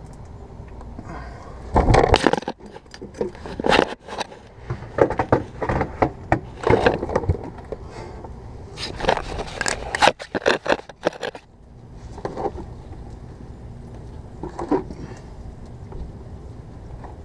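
Oil filter wrench scraping, clicking and knocking against an oil filter that is on very tight, in irregular bursts for most of the first two-thirds, then only a few scrapes.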